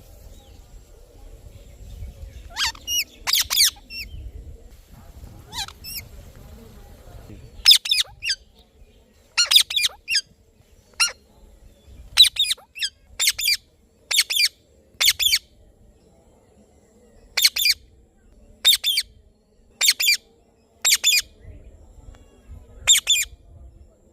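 Indian ringneck parrot (rose-ringed parakeet) giving a series of short, high-pitched squawking calls, about one a second at uneven gaps, some in quick pairs. A low rumble lies under the first few seconds.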